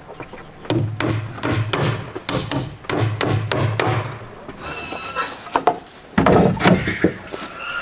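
Repeated strikes on wood, about three a second, each with a dull thud. Near the end they give way to a brief high squeak and a louder rustling clatter.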